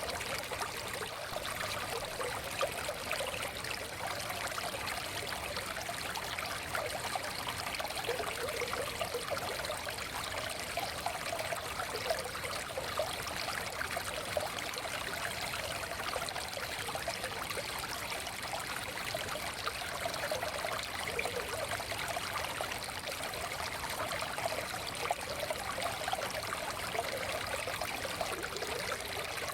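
Forest stream flowing steadily: a continuous rush of water, with no deep rumble.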